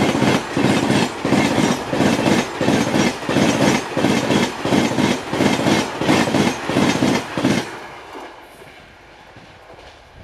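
Express train coaches passing at speed, about 130 km/h, their wheels clattering over the rail joints in a fast rhythm of about two beats a second. The clatter drops away suddenly near the end as the last coach passes, leaving a fainter fading rumble.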